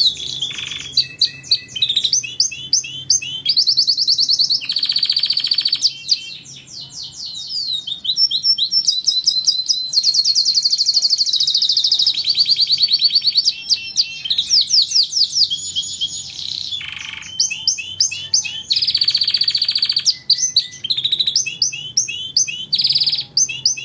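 Canary singing a long, continuous song of rapid trills and repeated sweeping notes, switching from one trilled phrase to the next every second or two.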